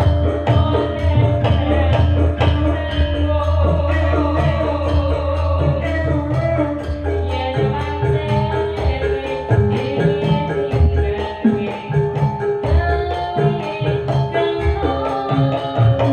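Sragenan-style Javanese popular music played live: sustained melodic notes over repeated low drum strokes, with a voice singing.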